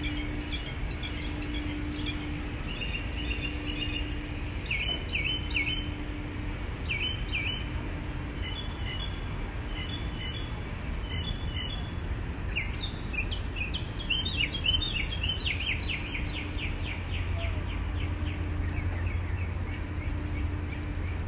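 Songbirds chirping, with short calls repeated again and again and a quick run of rapid notes about two-thirds of the way through, over a steady low rumble.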